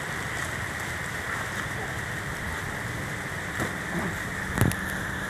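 Steady rain falling, with a few short knocks in the last two seconds.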